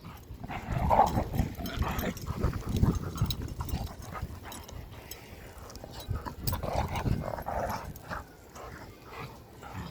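Airedale terriers vocalising as they play together, in two spells: one about half a second in, lasting a couple of seconds, and another around six to eight seconds.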